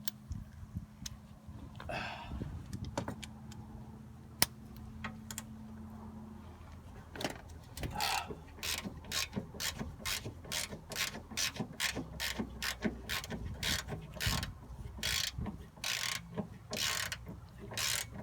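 Socket ratchet clicking as a 14 mm bolt is worked loose under a Nissan 240SX. There are scattered clicks and one sharp knock at first, then from about seven seconds in a steady back-and-forth ratcheting at about two strokes a second.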